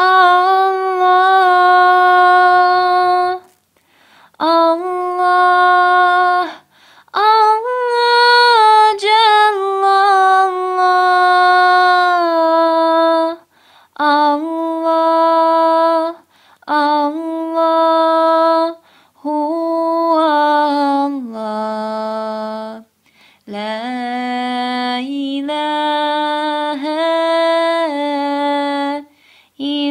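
A woman singing an ilahija, a Bosnian Islamic devotional hymn, unaccompanied. She sings long held notes in phrases a few seconds long, with short breaths between them.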